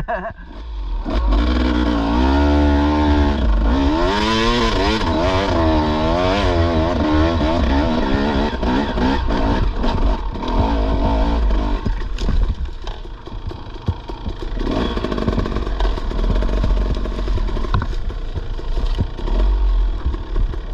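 Dirt bike engine running and revving, its pitch rising and falling again and again in the first half, with a heavy low rumble throughout.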